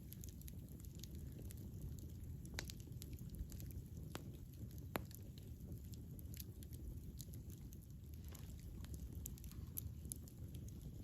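Wood fire crackling: irregular sharp pops and snaps over a low, steady rumble of the flames, the loudest pop about five seconds in.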